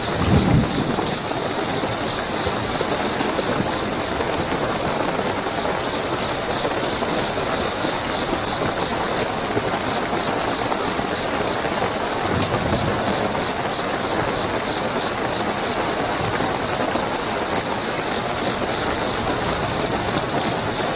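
Steady heavy rainfall with a continuous high trill of night crickets. A brief low rumble comes about half a second in and a fainter one about twelve seconds in.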